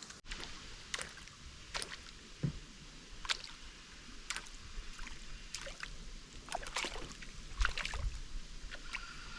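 Canoe being paddled: short water splashes and drips from the paddle about once a second over a soft background hiss.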